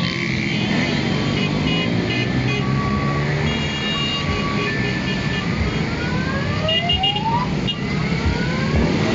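A motorcycle caravan going by: many engines running over a steady road rumble, with short horn honks repeated several times and engines revving up in rising notes in the second half.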